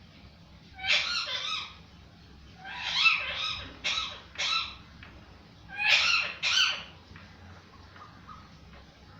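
A parrot calling: loud squawking calls in three bouts, the first about a second in, a run of four or five around three to four and a half seconds in, and two more around six seconds in.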